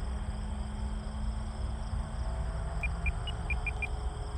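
Seagull Models Super Decathlon electric RC airplane flying at a distance, its motor and propeller a faint steady tone under low wind rumble on the microphone. A quick run of six short high chirps comes near the end.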